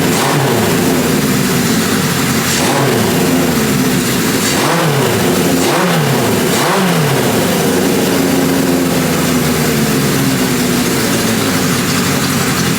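1980 Kawasaki KZ1000 LTD's air-cooled inline-four engine running on its rebuilt carburettors, blipped about five times in the first seven seconds, each rev rising and falling back, then settling to a steady idle.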